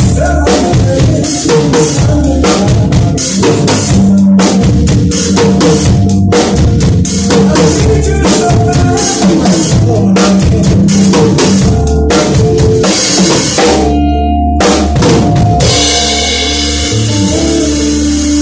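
Drum kit played at full volume over a backing track with a steady bass line. The drumming breaks off briefly near the end, comes back for a moment, then stops, leaving the backing music playing on.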